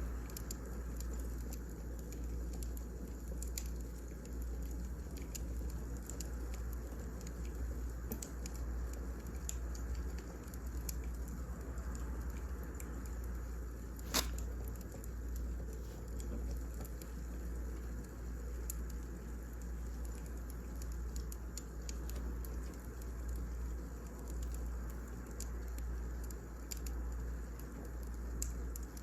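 Wood fire crackling, with scattered small pops over a steady low rumble and one sharp, louder pop about halfway through.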